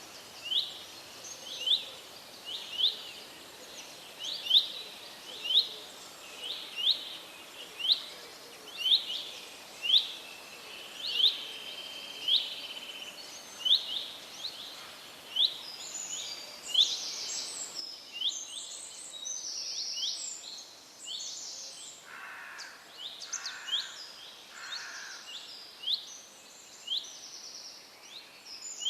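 Birds calling over a steady background hiss: a short, sharply rising chirp repeated over and over through the first half, then a different bird's higher, clustered calls, with a few lower notes mixed in.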